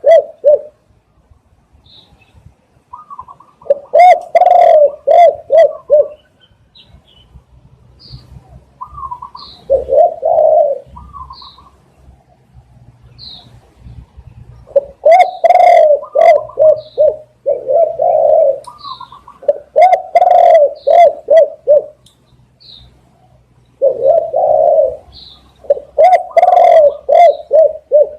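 Spotted dove cooing: groups of several quick coos repeated every few seconds, some phrases opening with one longer coo. Short high chirps sound faintly between the phrases.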